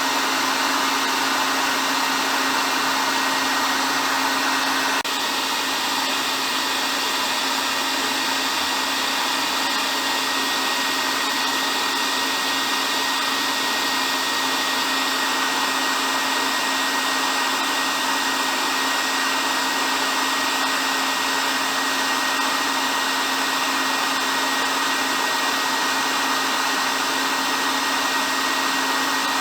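Hair dryer running continuously: a steady rush of air with a constant motor hum and a thin high whine. The level dips slightly about five seconds in, then holds steady.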